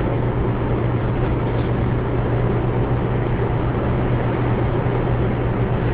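Steady running noise of a car on the move: engine and road noise with a constant low hum.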